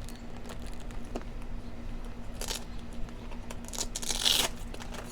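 Stiff new motocross boot being handled as its buckles and straps are fastened: a few short scraping, rustling noises, the loudest a little over four seconds in.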